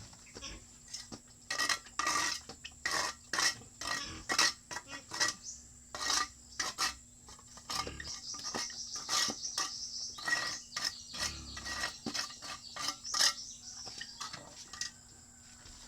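Irregular clinks and knocks of hard objects with some scraping, in quick uneven strokes, thinning out near the end.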